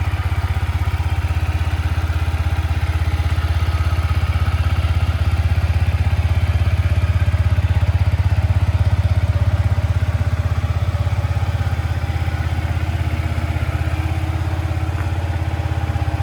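Yamaha XSR125 Legacy's 125 cc single-cylinder four-stroke engine idling steadily and quietly.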